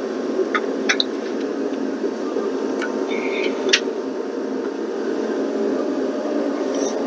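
Steady low mechanical hum, like a running fan or blower, with a few short sharp metallic clicks from hand tools being worked on engine fittings.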